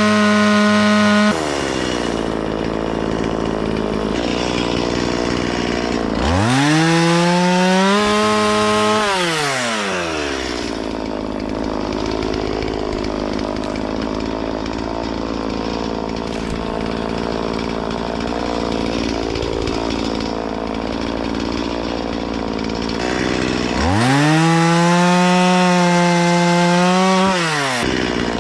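Stihl chainsaw cutting through willow wood. The engine screams at full revs off the wood, about six to nine seconds in and again near the end, and drops into a rougher, lower note under load in the cut, with one long steady cut through the middle.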